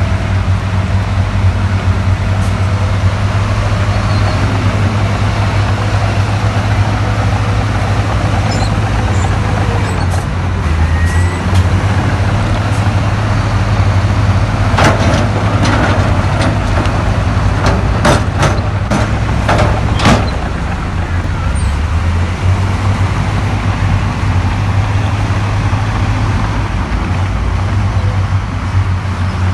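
Heavy diesel earthmoving machinery running under load, a steady low engine drone, with a cluster of sharp knocks and clanks about halfway through.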